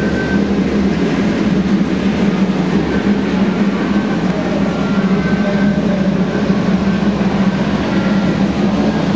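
Electric model trains running on the layout's track: a steady rumble of wheels on rails over a constant motor hum, with faint thin whines coming and going.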